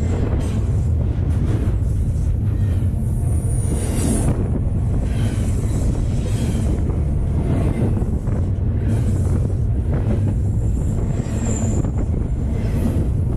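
Double-stack intermodal freight cars rolling past right beside the track: a loud, steady low rumble of steel wheels on rail, with brief high squeals about four seconds in and again near the end.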